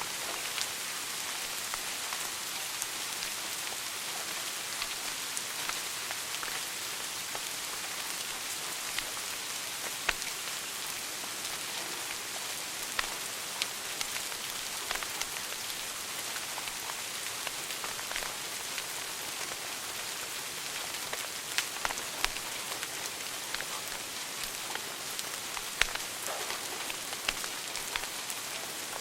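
Wood fire in a fireplace crackling: a steady hiss strewn with many small snaps and an occasional louder pop.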